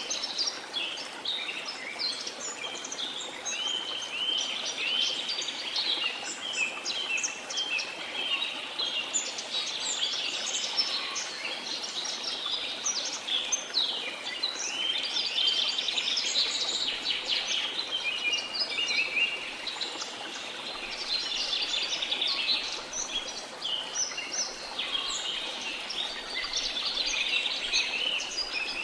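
Many birds chirping and calling at once in a dense, continuous chorus of short high calls, over a steady rush of running water.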